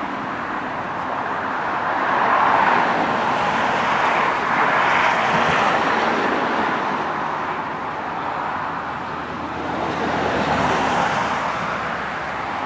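Jet engine roar of a Boeing 767-200 climbing away after takeoff, a steady rumble that swells and fades twice.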